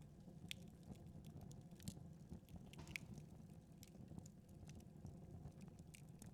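Wood fire in a fireplace crackling faintly: sparse, irregular pops and snaps over a low steady rumble.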